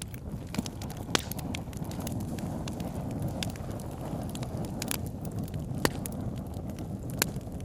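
Campfire crackling: irregular sharp pops and snaps of burning wood, a few louder than the rest, over a steady low rushing sound.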